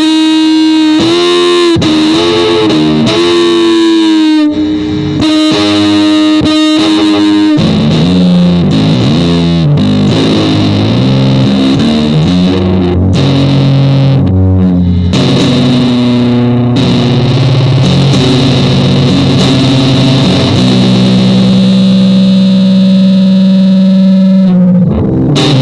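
Music: distorted electric guitar through effects, playing held notes that step from pitch to pitch.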